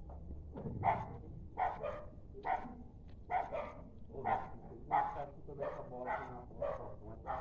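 A dog barking over and over in a steady run of short barks, about one or two a second.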